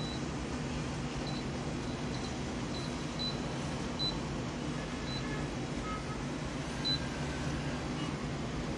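Washing machine running with a steady low hum, with short high-pitched chirps or beeps at irregular intervals, about ten in all.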